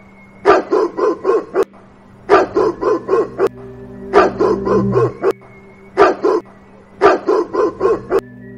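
A dog barking in quick runs of up to six barks, five runs in all, with short pauses between them.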